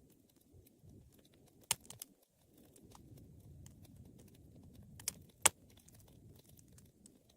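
Wood fire burning with a low steady rumble of flame and scattered small crackles, with sharp pops about a second and a half in and twice around five seconds in, the loudest near five and a half seconds.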